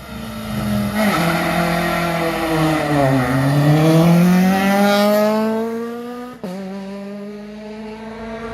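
Rally car launching from a stage start. Its engine is held at steady revs, then the revs dip under load as it pulls away and climb steadily as it accelerates. About six and a half seconds in there is a sudden cut to another rally car's engine held at steady revs.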